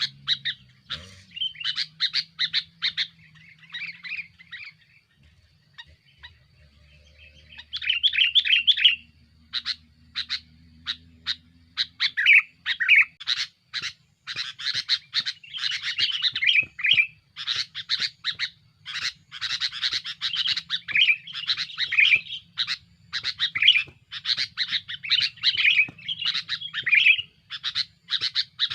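Male sooty-headed bulbul (kutilang) singing busily: a rapid series of sharp chirps broken by short bubbling, warbling phrases, repeated almost without pause.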